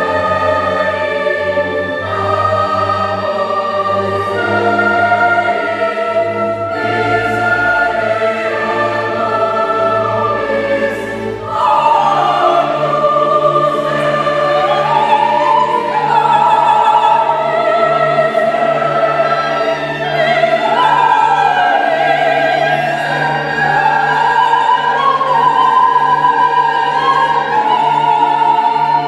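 A Mass setting performed by mixed choir and chamber orchestra, with sustained chords. About halfway through, the deep bass notes fall away and a voice singing with wide vibrato rises and falls above the held orchestral chords.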